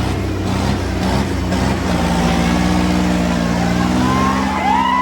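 Eicher 557 tractors' diesel engines running hard and loud under heavy load, a steady drone as the tractors pull against each other in a tug-of-war. A short shout or whistle rises over the engines near the end.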